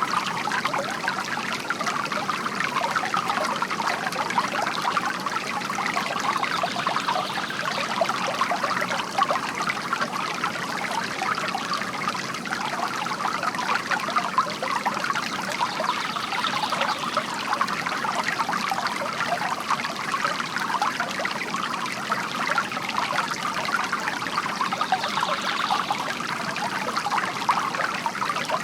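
Water from a bamboo fountain trickling and splashing steadily into a basin, an even, continuous pouring sound with no pauses.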